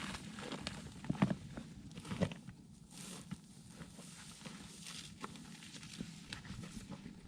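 Hiking footsteps on loose, rocky ground while heading downhill off a summit: irregular crunches and knocks of boots on rock, the loudest about one and two seconds in, then fainter.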